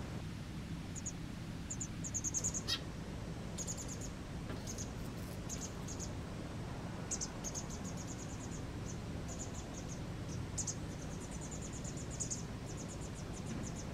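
Small birds giving high, rapid chirps in short trains, repeated many times, over a steady low hum.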